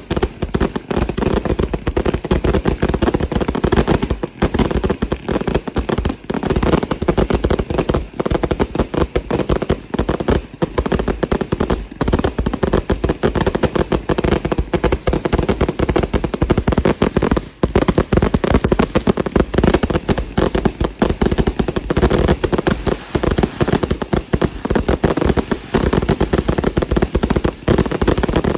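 Consumer fireworks going off in a dense, continuous barrage of rapid bangs and crackles with no pause.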